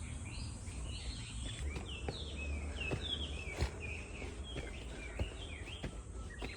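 Wild birds calling in woodland: a steady series of short, downward-sliding chirps, several a second, over a low rumble, with a few sharp clicks.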